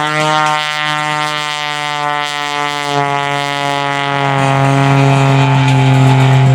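Pitts S-1-11B aerobatic biplane's Lycoming six-cylinder engine and propeller, running with a steady drone as the pilot works the throttle. The pitch sinks slowly over the first few seconds, then holds while the sound grows louder near the end.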